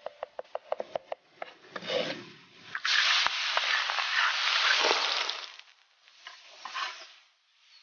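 Rapid knife chopping on a board, about eight knocks a second. About three seconds in, a loud hiss like food going into hot oil starts and fades over the next few seconds.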